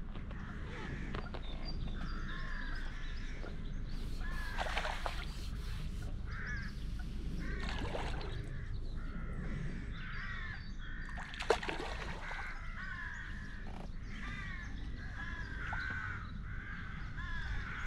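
Birds calling over and over with short arching calls, while a hooked fish splashes at the surface a few times, the loudest splash about eleven and a half seconds in.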